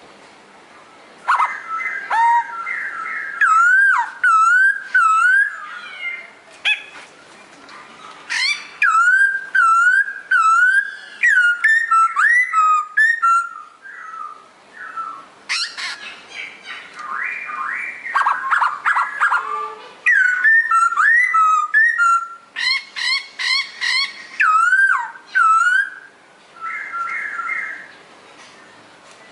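A songbird, the 'pokho' of the title, singing loud whistled phrases: looping notes that rise and fall, quick repeated runs and rapid trills, broken by short pauses.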